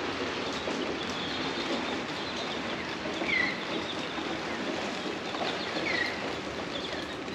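Birds calling over a steady background rush, with short high chirps throughout and two louder hooked calls about three and a half and six seconds in.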